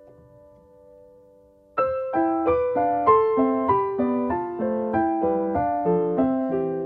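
Background piano music: a quiet held chord fades out, then about two seconds in a gentle run of single notes begins, roughly three notes a second.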